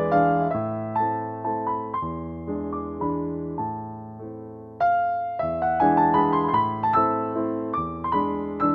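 Gentle piano music: chords and melody notes struck one after another, each ringing and fading, growing softer toward the middle, then louder again from about five seconds in.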